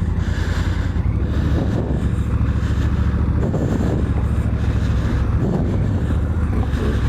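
Honda Africa Twin's parallel-twin engine running steadily as the bike is ridden on a dirt track.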